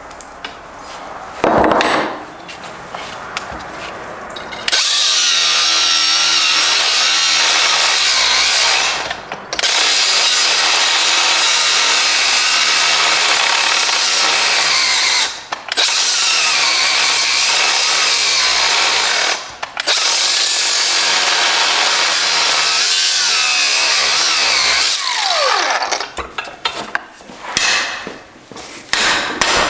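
Handheld power tool cutting into metal transmission parts in several long runs, pausing briefly three times, with a slightly wavering pitch as it loads up. Before and after, lighter knocks and handling of the parts.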